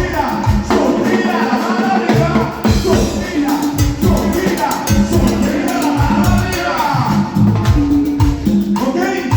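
Live band playing Latin dance music with a steady beat. The bass drops out briefly about a second in and comes back.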